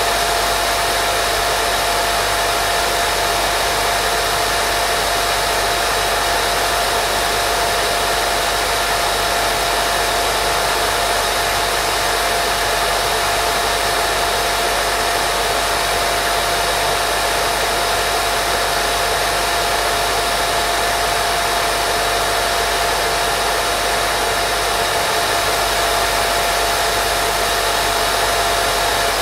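Baby-sleep white noise: a loud, unchanging hiss with a thin steady mid-pitched tone running through it and little deep bass.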